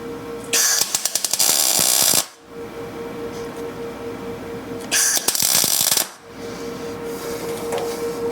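Welder laying two short tack welds on the steel frame bars, each a crackling burst lasting one to two seconds that starts and stops abruptly, with a steady hum underneath.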